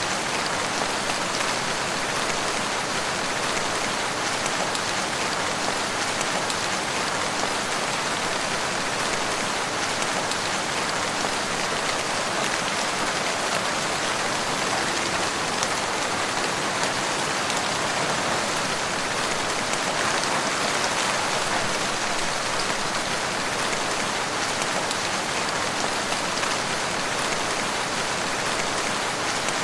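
Steady rain falling, a dense, even patter of drops with no break.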